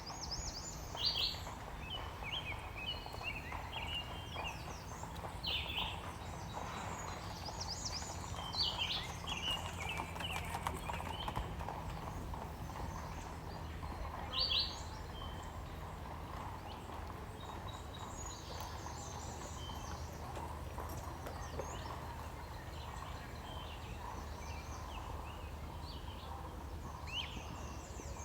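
Horse hooves clip-clopping on the road, over a steady low rumble.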